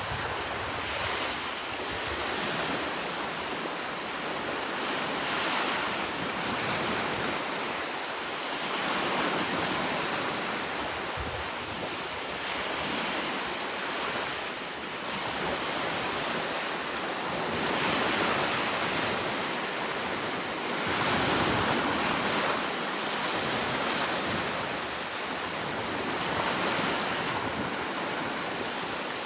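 Sea waves breaking and washing on the shore, a steady rush that swells and eases every few seconds, with wind.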